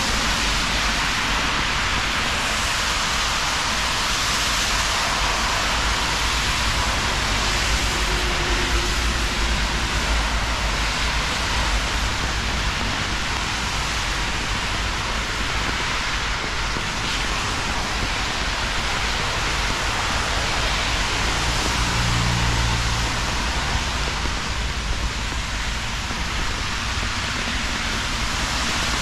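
Steady rain falling, a constant even hiss, with a low rumble underneath.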